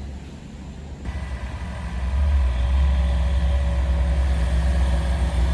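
Heavy truck engine running with a deep, steady rumble. It grows louder about two seconds in.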